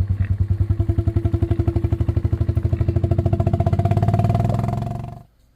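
A small engine running with an even, rapid low throb. It dies away quickly about five seconds in, as when it is switched off.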